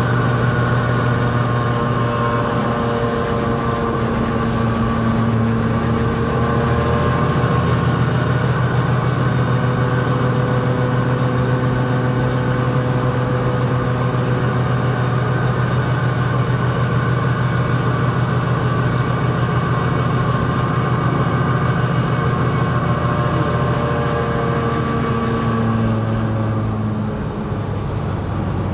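New Flyer XD60 articulated diesel bus under way, its engine and drivetrain running steadily with a low drone and a whine from several steady tones. The sound eases off near the end as the bus slows.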